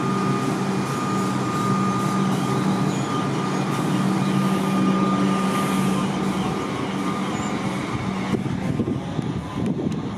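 Comeng electric suburban train pulling out of the station: a steady electric hum with a high whine over the running rumble. The hum fades about eight seconds in, leaving a rougher rumble with uneven knocks.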